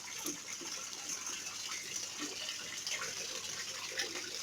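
Steady running and splashing water, with a few small splashes standing out from it.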